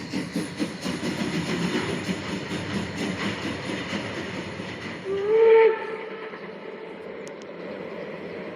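Piko BR80 model steam locomotive's sound unit playing rapid, even steam chuffing. About five seconds in it gives one short whistle that rises slightly and holds, and after that a quieter steady sound remains.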